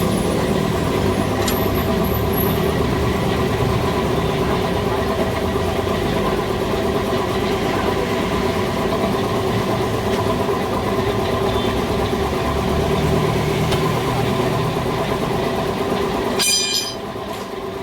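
A machine running steadily with a constant hum, dropping in level briefly near the end.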